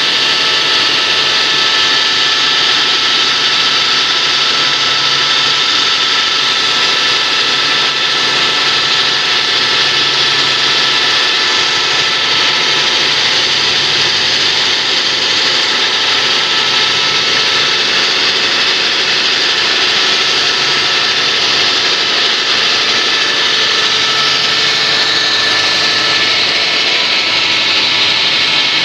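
Stone-cutting saw sawing through natural basalt: a steady, loud grinding hiss with several constant whining tones, unbroken throughout.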